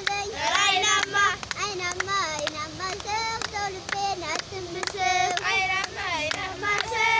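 A group of young voices singing a song together, with steady hand-clapping in time at about two claps a second.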